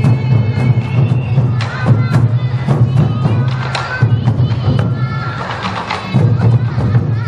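Loud traditional temple-procession music: frequent sharp percussion strikes over a steady low drone, with a pitched melody line above.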